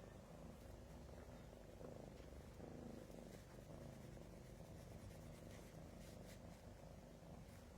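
Cat purring faintly, a steady low rumble.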